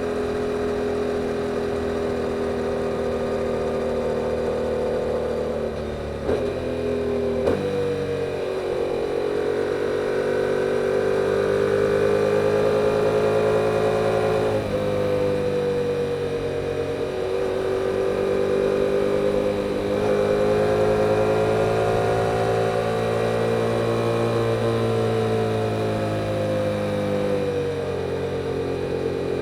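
2022 Yamaha YZF-R7's parallel-twin engine on its stock exhaust, running under way. Its pitch climbs and eases as the bike speeds up and backs off, with quick breaks about six to seven seconds in and again midway.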